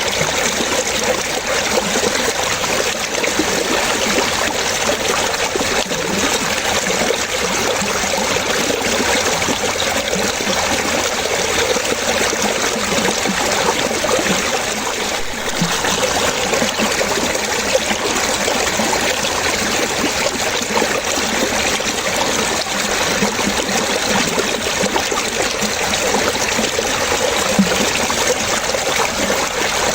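Water splashing and trickling steadily, like a small stream or brook over stones, with no lulls.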